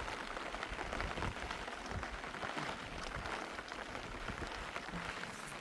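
Steady rain falling on a surface: an even hiss dotted with many small drop ticks.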